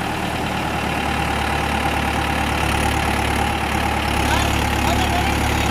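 Diesel tractor engine running steadily with a low, even hum.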